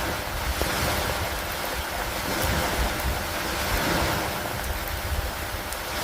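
Steady rain over lake water, an even dense hiss with wind noise and a low rumble underneath.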